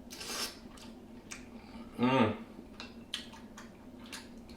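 Close-up eating sounds from a mukbang: a short slurp at the start, scattered small wet clicks and smacks of chewing, and about two seconds in a brief voiced "mm" that falls in pitch, the loudest sound.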